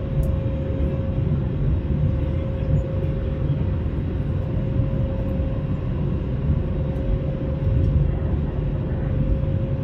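Steady cabin noise inside an Airbus A321: a low rumble of engines and airflow with a constant hum just above 500 Hz.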